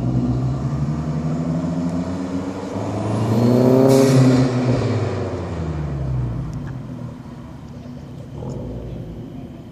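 A car engine under power driving past. It grows loud to a peak about four seconds in, then drops in pitch and fades as it moves away.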